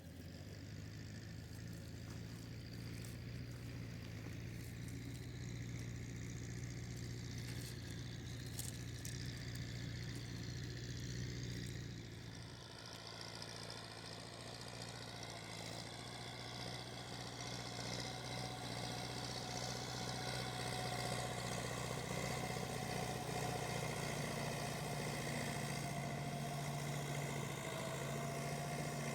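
Tractor engine running steadily, getting somewhat louder in the second half.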